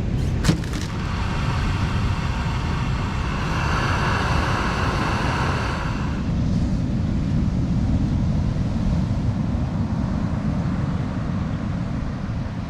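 Steady rumble of wind and surf. About half a second in there is a sharp click, followed by a high hissing whine with several pitched tones that lasts about five seconds and then stops.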